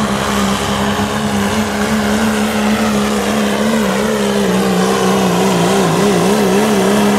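Turbocharged diesel pickup pulling a weight-transfer sled at full throttle, its engine holding a steady high note. Near the end the pitch wobbles up and down, and then the engine cuts off sharply as the throttle is released.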